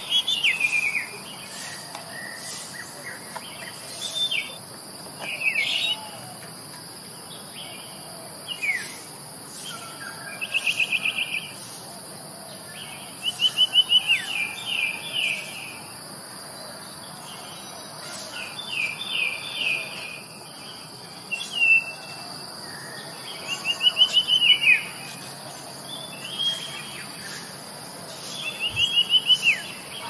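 Songbirds singing in short phrases of quick repeated notes every few seconds, over a steady high-pitched insect drone.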